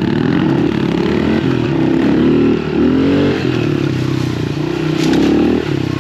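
Small 110cc pit bike engines running on the move, their pitch rising and falling repeatedly as the throttle is worked.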